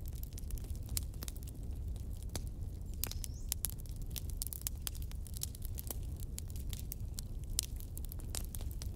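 Wood fire burning, with a steady low rumble of the flames and irregular sharp crackles and pops of the burning wood, plus a brief faint high whistle about three seconds in, typical of gas hissing out of a log.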